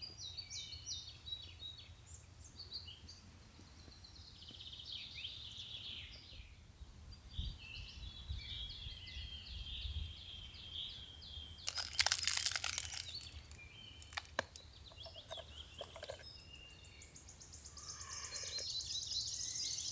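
Several songbirds chirping and warbling in a morning chorus, with a longer warbling song near the end. A short rustling crunch sounds about twelve seconds in.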